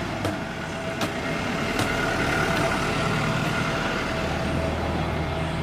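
Distant jet airliner approaching: a steady engine whine growing slowly louder over a low rumble of traffic.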